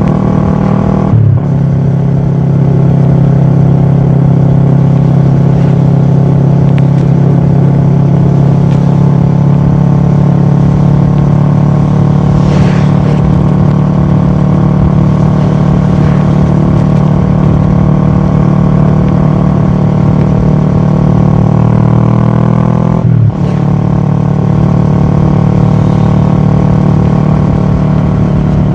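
Kawasaki ER6-F's parallel-twin engine running through a full Akrapovic exhaust, recorded from a camera mounted on the bike while riding. The engine note holds steady and creeps slowly higher. It breaks off briefly and drops in pitch twice, about a second in and again about 23 seconds in.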